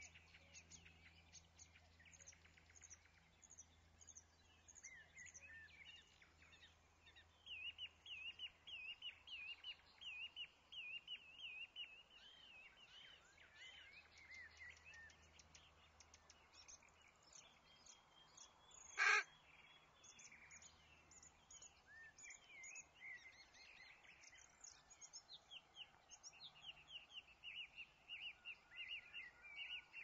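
Small garden birds chirping and singing, with quick runs of rapidly repeated chirps. One short, loud harsh sound stands out about nineteen seconds in.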